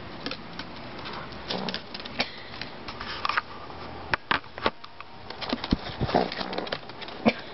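Pet rabbit giving short, irregular grunts among scattered clicks and rustles while it is being petted. The grunting is its sign of annoyance at being petted when it wants treats.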